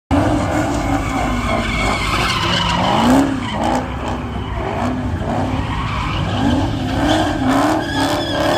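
A car engine revving up and down over and over as the car slides on a wet road, its tyres spinning and skidding.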